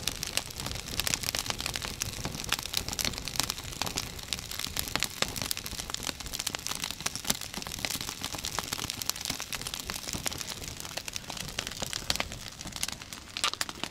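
Freshly lit campfire of small dry kindling crackling and popping steadily, with a dense run of sharp snaps.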